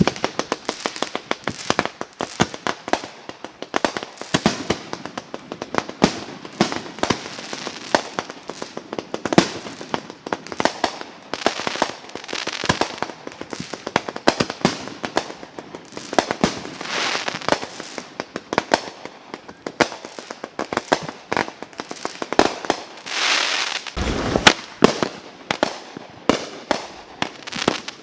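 Fireworks going off: a dense, irregular run of sharp pops and crackles, several a second, with a few short hissing stretches.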